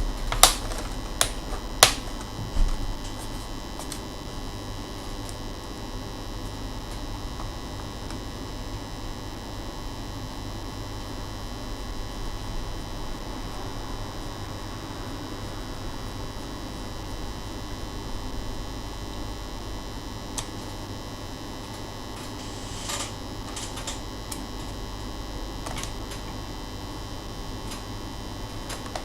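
Steady electrical hum with a few sharp clicks and taps from handling laptop parts: several in the first three seconds, then a few fainter ones later.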